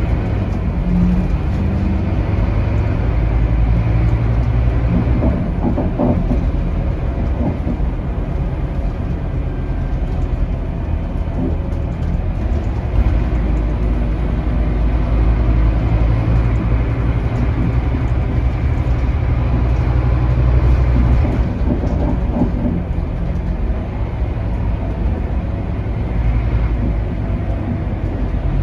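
Scania K280UB city bus with its five-cylinder Scania DC9 diesel engine, heard on board while under way: a steady engine drone over road and body rumble. The engine note swells twice and eases off about three quarters of the way through.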